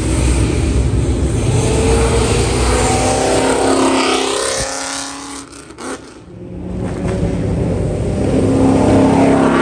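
A Mustang accelerating hard out of the show and passing by, its engine note climbing and then dropping away. After a short lull about two-thirds of the way in, a second car's engine comes up loudly near the end.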